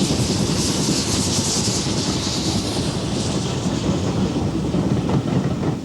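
A steam locomotive running on the line: a steady rumble and clatter of wheels with a hiss of steam that eases after about three seconds.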